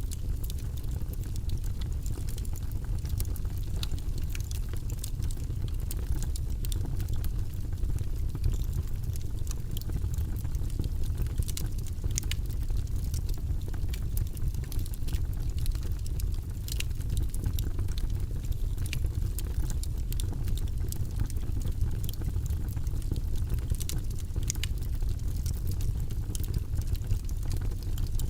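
Wood logs burning in a fireplace: a steady low rush of flame with frequent sharp crackles and pops at irregular moments.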